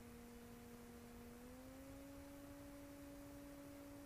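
Near silence with a faint steady hum made of two tones, which rise slightly in pitch about a second and a half in.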